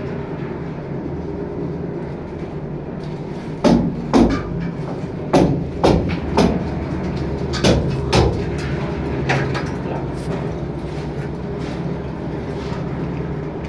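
A run of about eight sharp knocks, some in pairs about half a second apart, over a steady mechanical hum.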